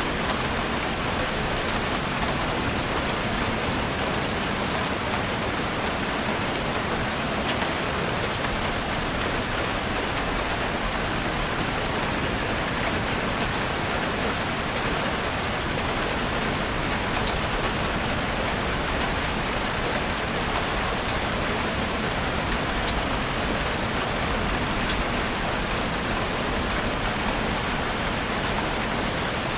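Heavy rain falling steadily on a roof, a dense even hiss with countless small drop ticks.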